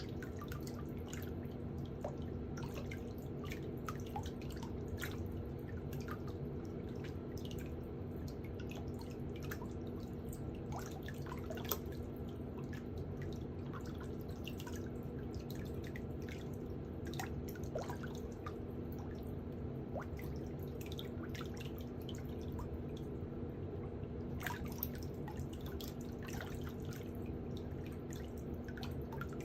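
A steady low hum with many small, irregular clicks and ticks scattered over it.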